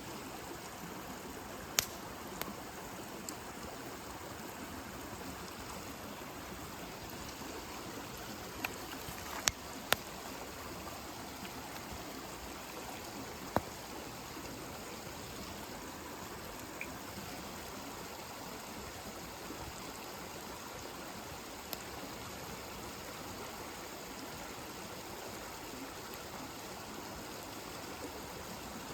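Campfire burning with a steady hiss, broken by a few sharp pops and crackles, the loudest pair close together about ten seconds in.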